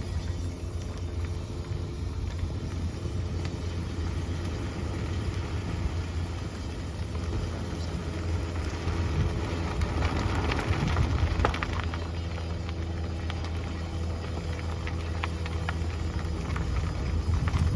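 Toyota Prius moving with a steady low road rumble, and a scraping screech from a wheel that comes in for a couple of seconds about ten seconds in. The screech is a bent brake dust shield rubbing against the rotor; the wheel bearings and brakes themselves are sound.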